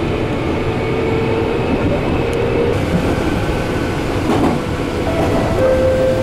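Meitetsu 100 series electric commuter train running, heard from inside the passenger car: a steady rumble of wheels and motors, with thin whining tones that hold and then step to a new pitch.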